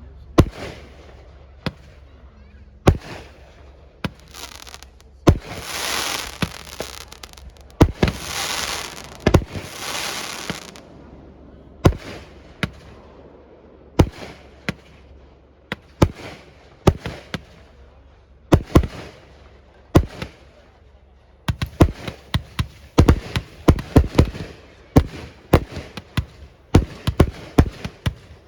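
Fireworks display: aerial shells bursting with sharp bangs every second or two, with three longer hissing, crackling stretches between about 5 and 10 seconds in, then a fast run of bangs through the last quarter.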